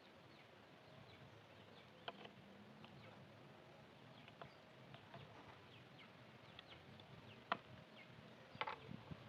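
Small wooden pieces being handled, giving faint, sparse clicks and light knocks, with a sharper knock about seven and a half seconds in and a quick cluster of knocks near the end.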